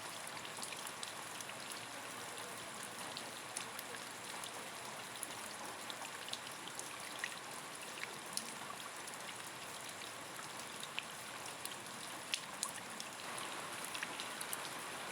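Rain falling steadily, a continuous hiss with many single drops ticking sharply on a nearby surface.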